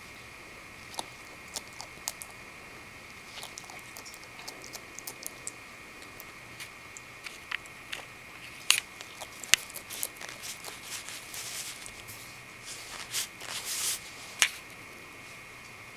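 Bearded dragon biting and chewing mealworms: scattered sharp clicks and short crunches, with a few louder snaps in the second half.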